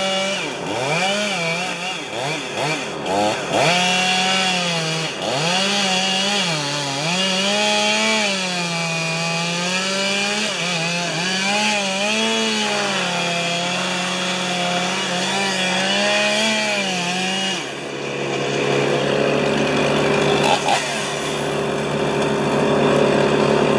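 Fuel-injected Stihl chainsaw cutting wood, its engine note dipping as it bogs down in the cut and climbing again, over and over. After about eighteen seconds the wavering stops and a steadier engine note takes over.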